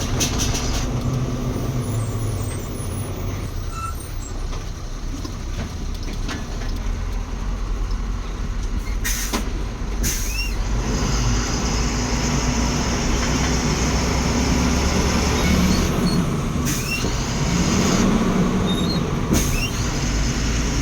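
A 14-wheel lorry's engine running steadily under way, heard from inside the cab, with a few brief sharp sounds spread through the second half.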